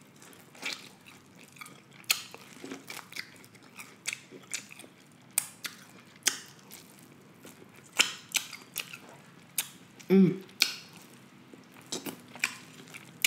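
Close-miked chewing and biting of buttery corn on the cob: irregular sharp wet clicks and smacks of kernels being bitten off and chewed. A short low hum about ten seconds in.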